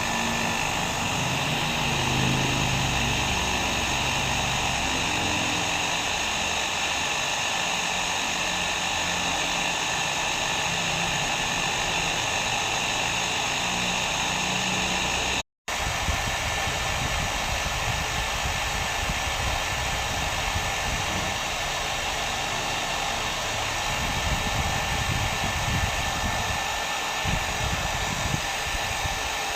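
Hair dryer running steadily: a constant blowing hiss with a faint steady whine. It cuts out for a split second about halfway through, then carries on unchanged.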